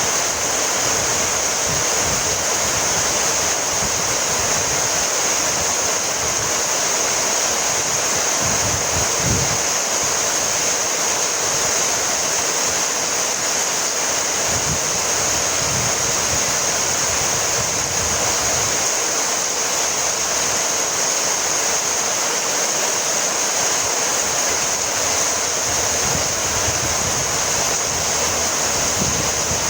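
Heavy rain falling steadily, a dense even hiss with a few brief low rumbles.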